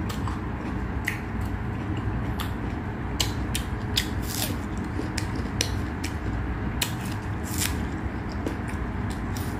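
A person chewing food close to the microphone, making irregular sharp crunching clicks about one or two a second over a steady low hum.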